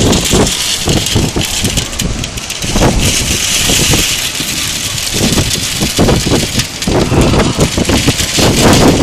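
Heavy rain falling as a steady hiss, with irregular low rumbling surges underneath.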